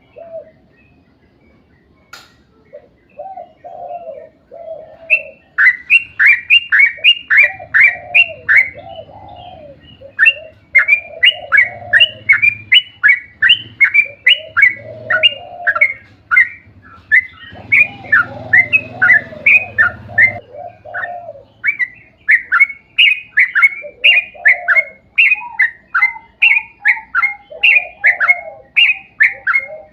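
Yellow-vented bulbul (trucuk) singing a long, rapid run of sharp, repeated notes, about four a second, over lower bubbling phrases. The song is quieter for the first few seconds, then picks up and carries on with brief pauses.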